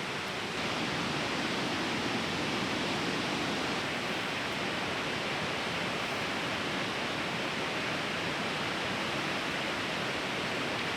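Steady rush of a fast-flowing river, an even wash of water noise that grows slightly louder about half a second in.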